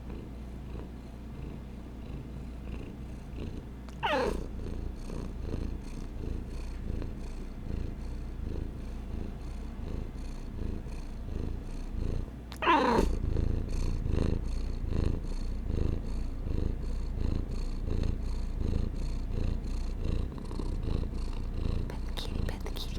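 A cat purring steadily, with two short meows that fall in pitch, about four and thirteen seconds in.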